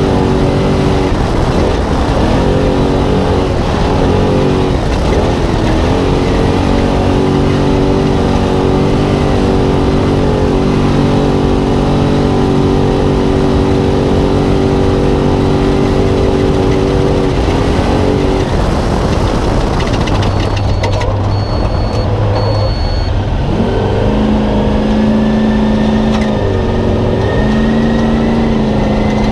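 Spec Trophy Truck's V8 heard from inside the cab, running hard at steady high revs. Its pitch dips and climbs back several times. Three short high beeps sound about two-thirds of the way through.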